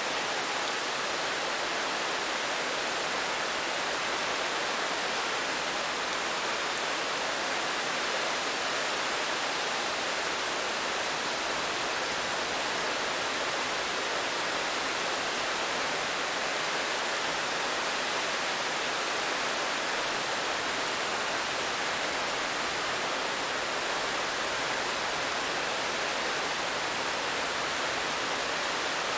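Steady rain falling, an even hiss that holds level throughout with no single drops standing out.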